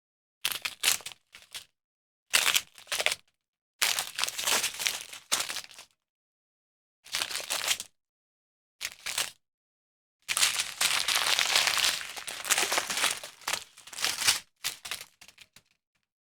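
Small plastic bags of diamond-painting drills crinkling as they are handled and shown one after another, in half a dozen short bursts with a longer stretch of crinkling about ten seconds in.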